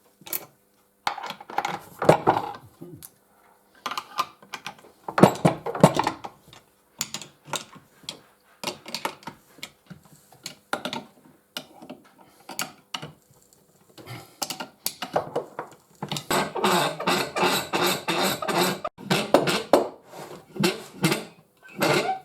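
Metal clinking and clanking of tools and vice parts being handled and fitted together, in irregular knocks, with a denser run of rapid clicks near the end.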